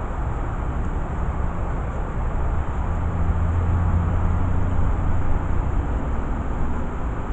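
A vehicle's low rumble that swells for a few seconds in the middle and eases back, over a steady background rumble.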